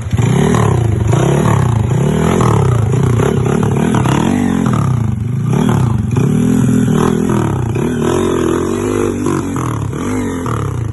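Vehicle engine revving up and down over and over, its pitch rising and falling about once a second.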